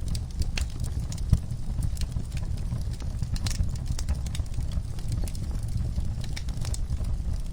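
Wood fire burning in a fireplace: a steady low rumble of the flames with frequent irregular crackles and pops, one sharper pop about a second in.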